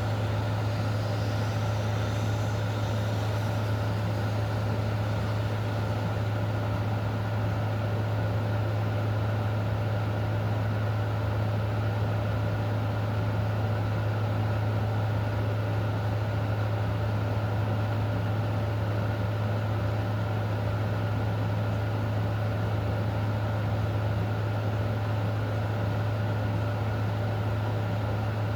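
Steady rain noise under a loud, constant low hum, with no change in level throughout.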